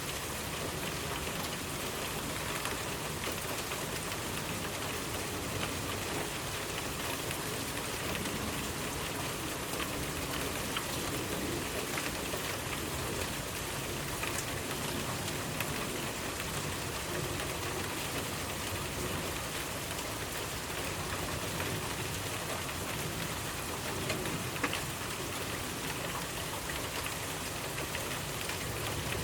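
Steady rain falling, an even hiss with many small drop ticks on a surface, and a few slightly louder drops near the end.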